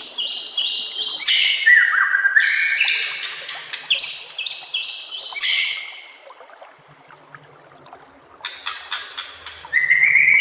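White-rumped shama (murai batu) singing: phrases of fast, loud repeated notes that slide downward, a pause about six seconds in, then a new run of rapid notes a couple of seconds later.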